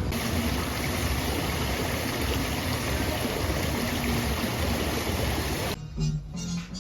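A steady rush of running water, cut off about six seconds in by music.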